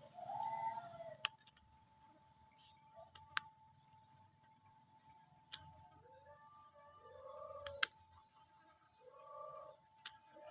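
Faint, short bird calls, four times, each a brief arched note, with a few sharp clicks between them and faint rapid high chirping in the background from about halfway through.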